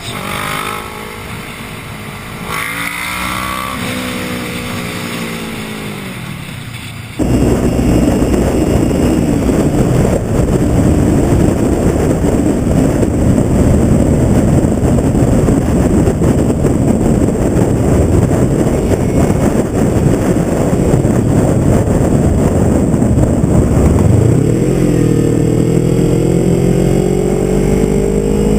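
Motorcycle engine revving, its pitch rising and falling through the gears. About seven seconds in, a loud rush of wind noise at riding speed suddenly covers it. Near the end the engine's pitch climbs steadily as it accelerates.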